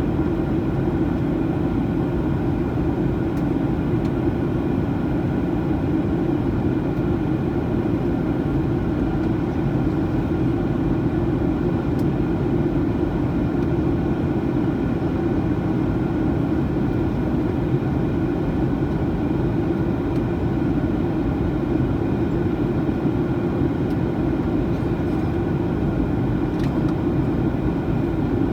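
Steady cabin noise inside a Boeing 737-900ER in flight: a low, even rush of airflow and the drone of its CFM56-7B turbofans, unchanging throughout.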